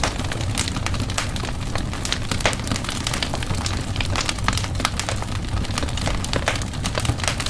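Wood fire in a fireplace crackling, with many quick sharp pops and snaps over a steady low rumble of the flames.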